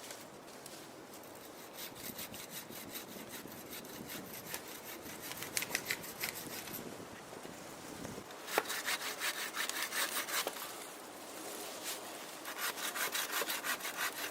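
Hand saw cutting through wood in quick, even back-and-forth strokes, in three bouts with short pauses between them.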